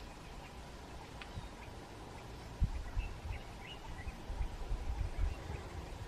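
Faint short bird calls scattered over a low, uneven rumbling background.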